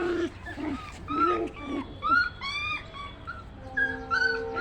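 Puppy yipping and whimpering: a string of short, high-pitched cries that arch up and down in pitch, with a few lower growly sounds near the start.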